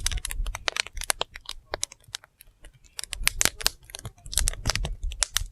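Wood fire crackling: irregular sharp snaps and pops of burning firewood over a low rumble, thinning out for a moment about two seconds in.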